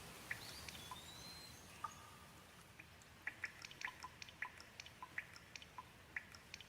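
Gentle rain: a soft hiss with scattered drops ticking, coming quicker from about halfway through. A faint high whistle slides in near the start.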